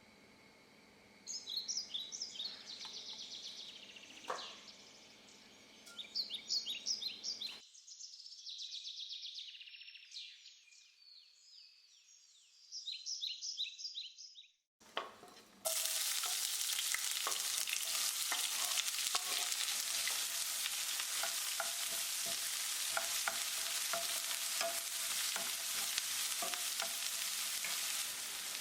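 Food sizzling in hot oil in a pan, a steady hiss with small crackles and clicks that starts abruptly about halfway through. Before it, birds chirp in quick repeated high notes.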